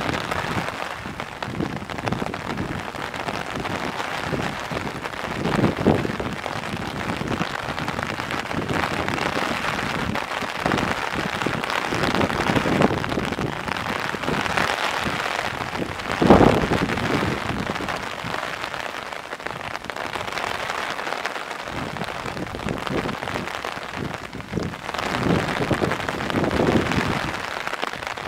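Heavy rain falling steadily on surfaces, with now and then a louder splash of drops, the loudest about sixteen seconds in.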